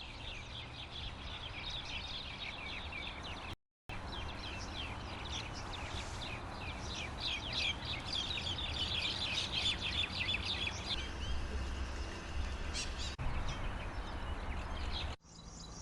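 Bee-eaters calling: many quick, short chirps and trills, densest in the middle, over a low steady rumble of background noise. The sound cuts out briefly about three and a half seconds in and changes abruptly near the end.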